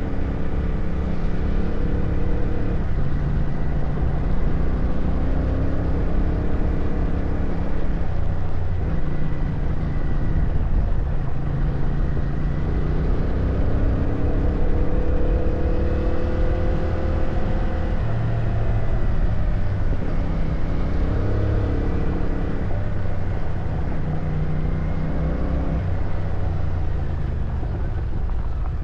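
Motorcycle engine running under way, its pitch rising and falling with the throttle over a steady low rumble.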